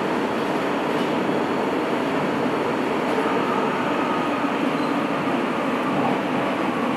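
Sapporo Subway Namboku Line 5000 series rubber-tyred train running, heard from inside the car as a steady rumble and rush of running noise. A faint steady whine comes in about three seconds in.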